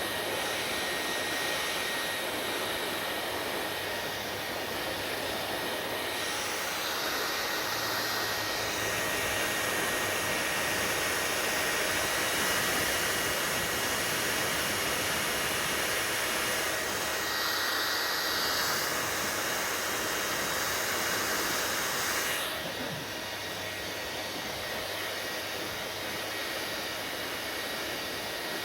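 Hair dryer running with a steady whoosh and a faint whine, growing somewhat louder about six seconds in and dropping back about three quarters of the way through.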